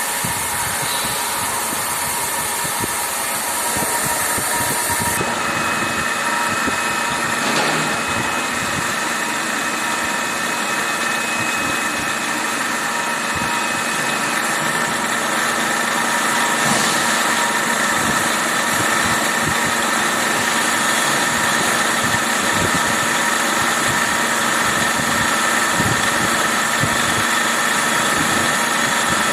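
LMW LL20TL5 CNC lathe running a hexagon-turning cycle: steady mechanical noise with several steady whining tones. A higher hiss drops away about five seconds in.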